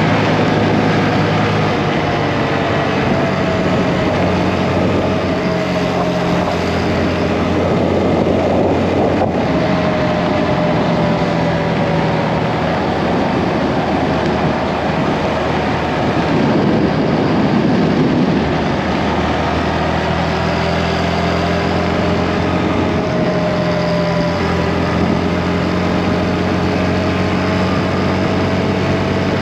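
Motorcycle engine running under way, its pitch slowly rising and falling with speed, over steady rushing wind noise.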